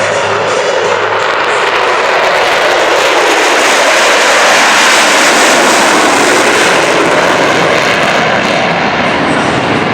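Jet engines of Blue Angels F/A-18 Super Hornets flying past, a loud rushing jet noise that swells to a peak about halfway through and eases off toward the end.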